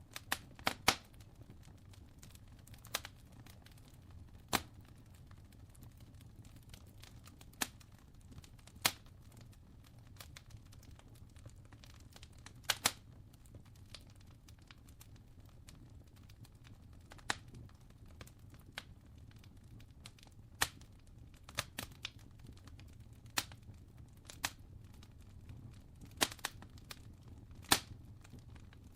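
Wood fire crackling: sharp, irregular pops and snaps at uneven intervals over a low, steady rumble.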